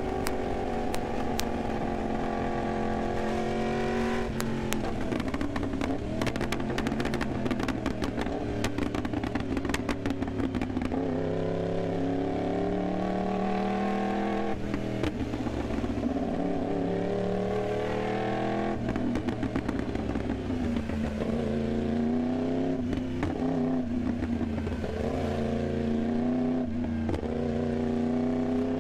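Yamaha R1M's crossplane inline-four engine under way, its pitch climbing as it accelerates and dropping sharply at each gear change, several times. Sharp crackles are heard along with it, thickest while the revs are lower.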